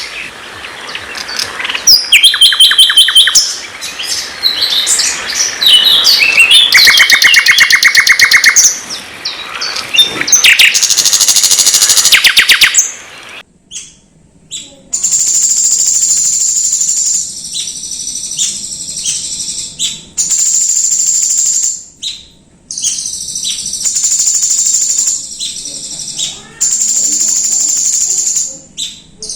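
Songbird song played as a tutor recording for white-rumped shamas: the first half is a loud, varied song of whistles, fast trills and rapidly repeated notes. From about fourteen seconds in, the song changes to long, very high, thin trills of about two seconds each, repeated with short pauses.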